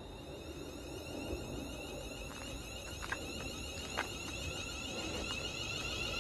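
Class 350 Desiro electric multiple unit pulling away, its traction motors giving a high whine of several stacked tones that climb in pitch and grow louder as it accelerates. A few faint clicks come through about three and four seconds in.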